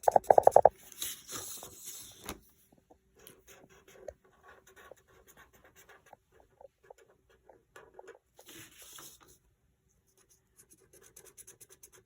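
Colouring strokes scratching on paper, coming in patches with short pauses between, after a short, loud run of rapid taps at the start.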